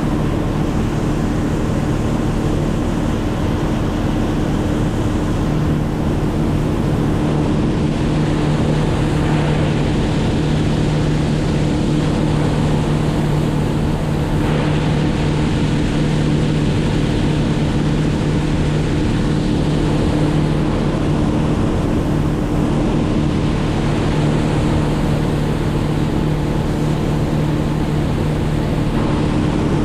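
An engine running at a steady speed, a constant drone with a rushing noise of wind or water over it.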